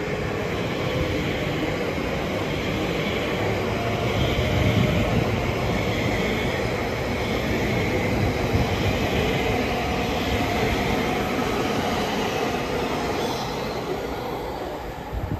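Electric multiple-unit trains, an Elizabeth line Class 345 and a Greater Anglia Class 720, running through the station: a steady rumble of wheels on rail with a faint wavering high whine over it. It eases off near the end.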